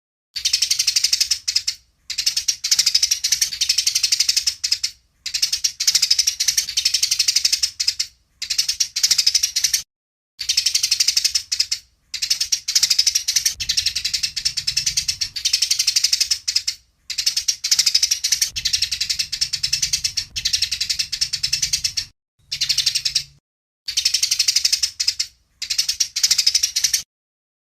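Eurasian tree sparrows giving rapid, harsh chattering fight calls. The calls come in about a dozen dense bursts of one to three seconds, split by short silent gaps.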